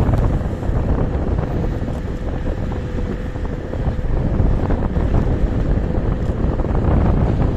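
Wind buffeting the microphone while riding a KuKirin G2 electric scooter, a loud steady rumble with a faint steady whine underneath.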